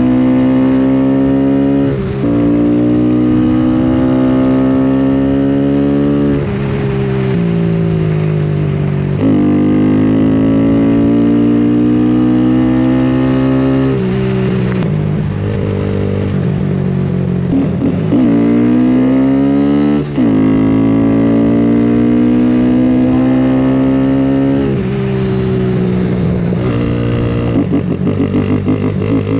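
A motorcycle engine pulling through the gears: its pitch climbs steadily and drops sharply at each shift, about six times. Near the end it falls back to a slower, uneven running.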